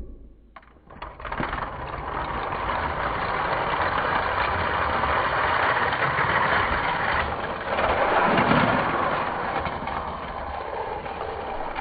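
Die-cast Hot Wheels cars rolling fast down a plastic race track, a steady rolling rumble and rattle that grows louder about eight seconds in.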